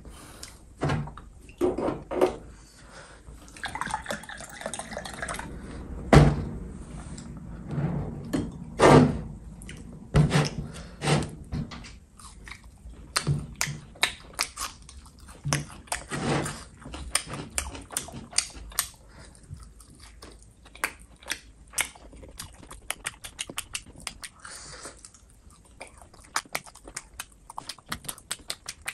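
A person chewing and biting food, with many short, irregular mouth clicks that come thicker later on.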